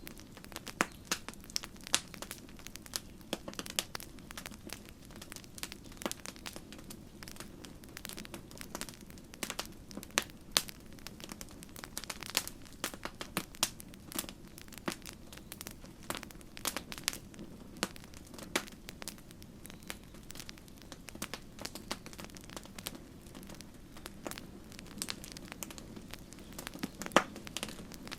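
Campfire wood burning, crackling and popping irregularly over a low, steady hiss and rumble of flames.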